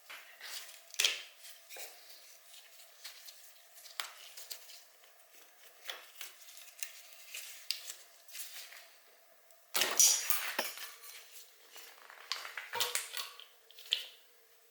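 Scattered light clinks, clicks and rattles of hand tools and small metal parts being handled and set down while a motorcycle is taken apart, with a louder clatter about ten seconds in.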